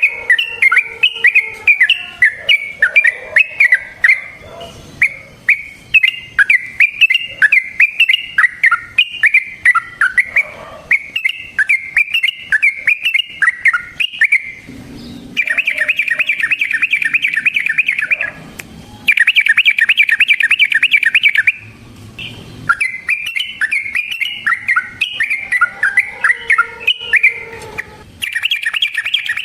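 Yellow-vented bulbul (trucukan) singing: quick runs of bubbly, chattering notes, broken by long, fast rolling trills about halfway through and again near the end.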